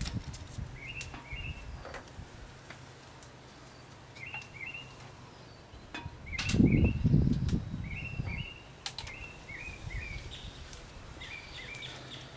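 A bird chirping repeatedly in short paired notes, a pair every second or so, over faint background noise. A burst of low rumbling noise, louder than the chirps, comes about halfway through and lasts a couple of seconds.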